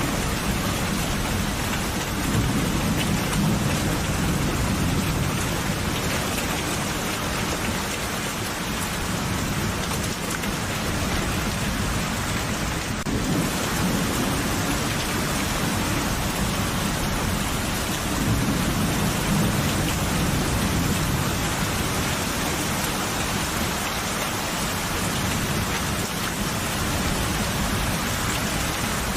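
Steady rain in a thunderstorm, with low rolling thunder that swells twice, a few seconds in and again about two-thirds of the way through.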